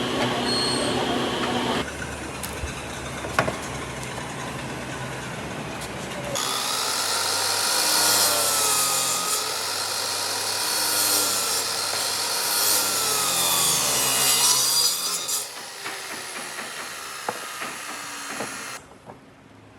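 Power tools working wood in several short takes that change abruptly. The loudest, from about six seconds in to about fifteen, is a high, hissing tool run whose pitch wavers up and down.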